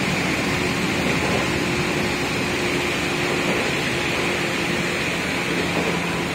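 Electric train running, heard from inside the carriage: steady rumble and rail noise with a faint hum that drops to a lower tone about five seconds in.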